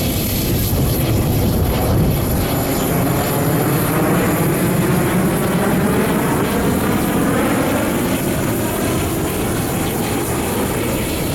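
Military jet fighters' engines making a loud, steady roar as the aerobatic team flies past. Faint sweeping shifts in the tone during the middle seconds fit aircraft moving across.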